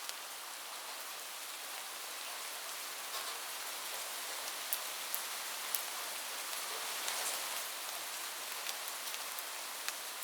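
Steady rain falling on a roof: a constant hiss with a few sharp, louder drop ticks standing out now and then.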